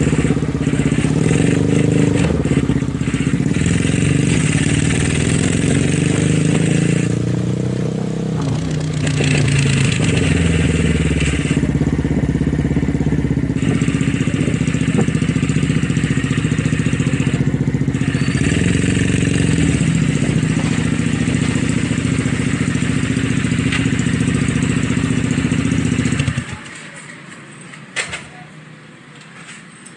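Motorcycle engine running and being revved, its pitch rising and falling, then switched off about 26 seconds in, leaving a few small clicks.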